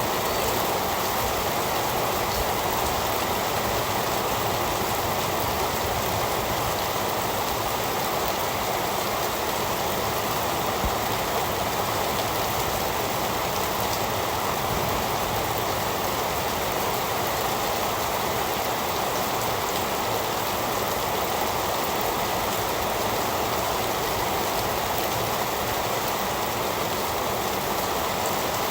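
Heavy rain falling steadily, a dense, even hiss with no breaks or changes.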